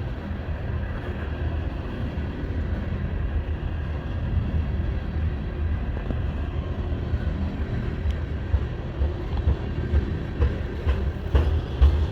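Norfolk Southern freight train rolling slowly past with a steady low rumble. From about two-thirds of the way in, wheel clicks over the rail joints grow louder and more frequent.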